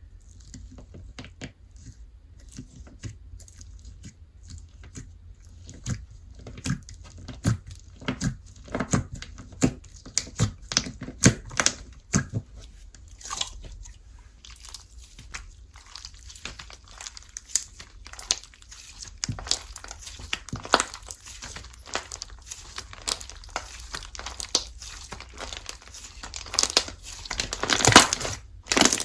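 Slime being squeezed, stretched and pressed by hand, giving off many sharp crackling clicks at an uneven pace, with a loud cluster near the end.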